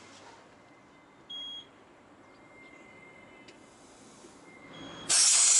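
Filling-station tyre air pump giving short electronic beeps, then a loud hiss of air about five seconds in as the pump's hose works on a motorcycle tyre valve.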